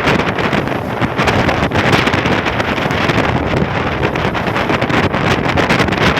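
Strong wind buffeting the microphone on a boat crossing rough sea, loud and gusty, with the boat's running noise and waves underneath.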